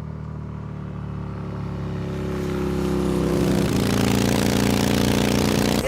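Motorcycle engine running with a steady note, growing louder over the first three seconds, then holding at that level.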